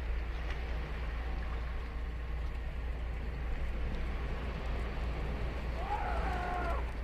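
Ocean surf breaking on the beach, a steady low rush, with a single bird call about six seconds in.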